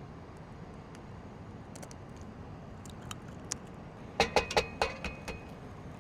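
Light clicks and taps of cooking gear being handled, with a quick run of four or five ringing metal clinks about four seconds in.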